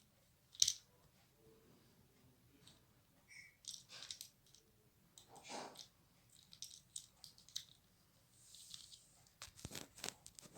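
A ringneck parrot playing with its toys: scattered small clicks, rattles and crinkling. A sharp click about half a second in is the loudest sound.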